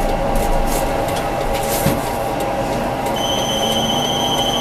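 Tram running on rails, with steady running noise and scattered clicks. A high, steady wheel squeal sets in about three seconds in.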